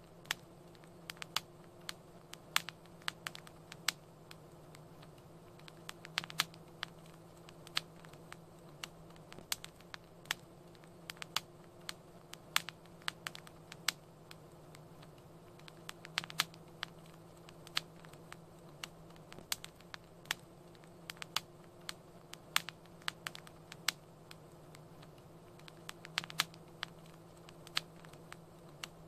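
Wood fire crackling: irregular sharp pops and snaps, several a second, over a steady low hum.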